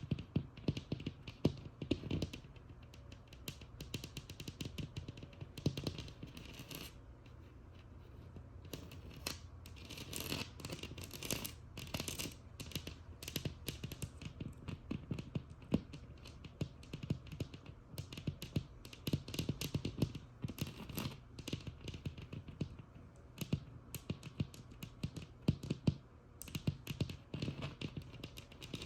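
Tapping and scratching on a textured wall: fast, irregular taps mixed with rasping scratches, with a quieter spell about a third of the way in.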